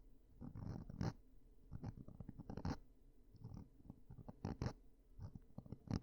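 Close-up scratching and scraping of an ear-cleaning tool inside an ear, in short irregular strokes with small crackles between them.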